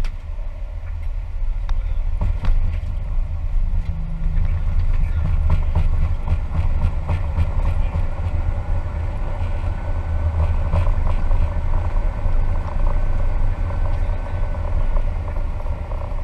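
Airbus A320 landing rollout heard inside the cockpit: a loud, steady rumble of the engines and of the wheels running along the runway just after touchdown, with a faint steady whine through the middle.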